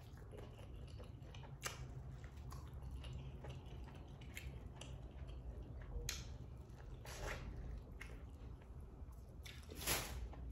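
Close mouth sounds of someone biting and chewing boiled corn on the cob: scattered wet clicks and smacks over a low steady hum, a little louder near the end.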